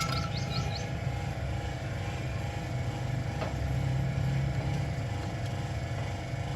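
Toyota GLi car engine idling steadily, the engine being worked on for its tappet noise. A bird chirps a quick series of notes in the first second.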